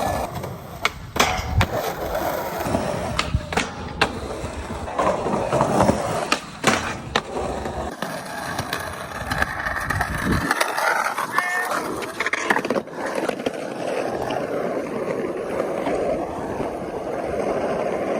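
Skateboards rolling on hard ground, with sharp clacks of boards popping and landing, most of them in the first half.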